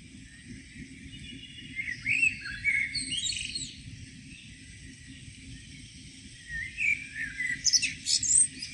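Songbird singing two phrases of quick twittering notes, one about two seconds in and another near the end, over a steady low rumble.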